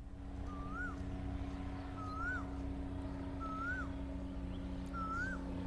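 A bird calling, repeating a short whistled note that rises and then drops about every second and a half, five times, over a steady low hum.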